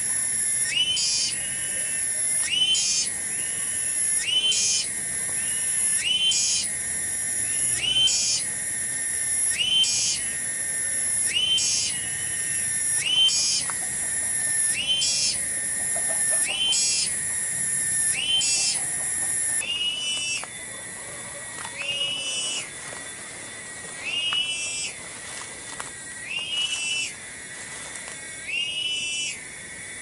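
A bird repeating a short rising whistled call every two seconds or so, over a steady high hiss that drops away about two-thirds of the way through.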